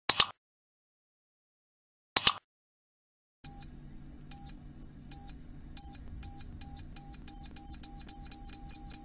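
Electronic time-bomb countdown sound effect: two sharp clicks, then from about three seconds in a high beep over a low hum, repeating faster and faster toward detonation.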